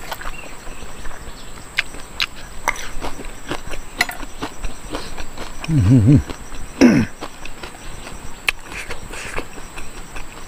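Close-up chewing of crunchy fried grasshoppers, a run of sharp crunches and clicks, with two short hummed "mm" sounds about six and seven seconds in. Insects chirp steadily in the background.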